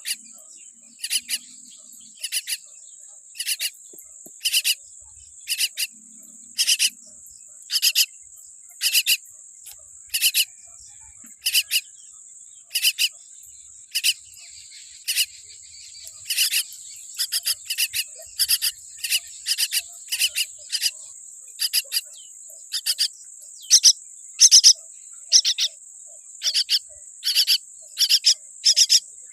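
Myna chick giving short, raspy begging calls over and over, about one a second at first and about twice a second from about halfway on. A steady high-pitched insect-like drone runs beneath them.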